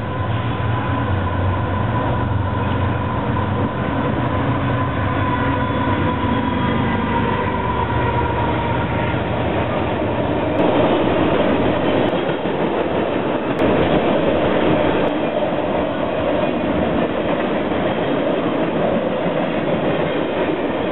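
Freight train passing at speed: the diesel locomotives go by with a low engine rumble and a steady whine that slowly drops in pitch. About ten seconds in, a long string of tank cars starts rolling past close to the track, with a continuous rumble and clatter of steel wheels on rail.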